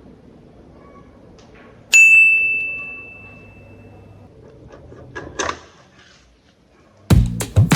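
A single bright ding about two seconds in, one high ringing tone like a small bell or chime struck once, fading out over about two seconds. A beat of background music comes in near the end.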